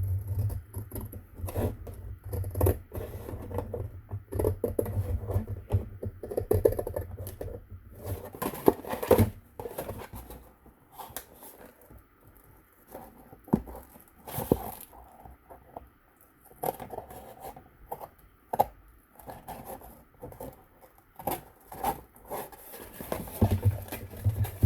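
Scissors cutting a cracker box's thin cardboard, with irregular snips, scrapes and handling of the box.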